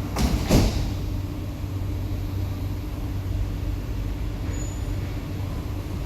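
Inside an SMRT C151B train: two sharp knocks with a short hiss in the first half-second, the second louder, then a steady low hum from the train's equipment.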